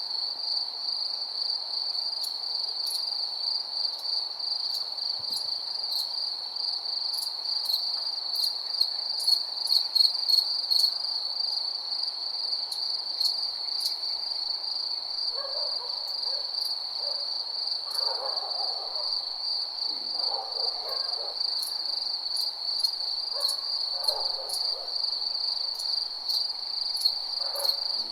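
Crickets chirping in a continuous high trill, with scattered sharp ticks and several lower calls in the second half.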